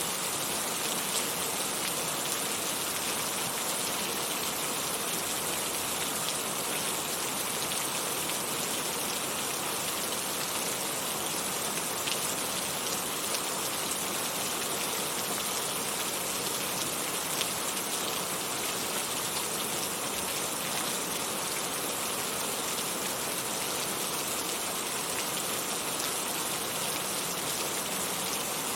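Heavy rain falling steadily, a dense even hiss of many drops hitting a surface, with an occasional sharper drop standing out.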